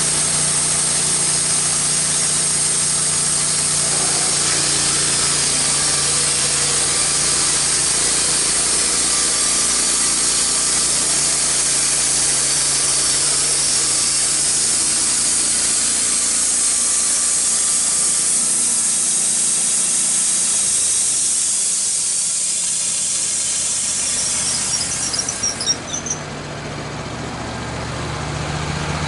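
Wood-Mizer LT15 band sawmill's blade cutting through a red oak log: a steady loud hiss over the engine's running. About 25 seconds in the cut ends with a brief squeal, the hiss dies away, and the engine runs on alone.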